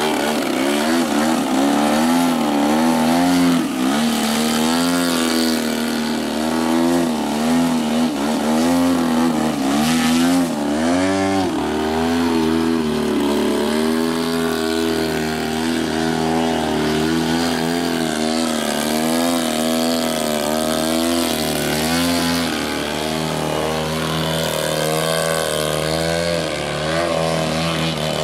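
Gasoline engine of a 35% scale Hangar 9 Extra 300 radio-controlled aerobatic airplane running in flight, its pitch wavering up and down as the throttle and manoeuvres change. From about eleven seconds in it holds a steadier pitch with a quick, even wobble.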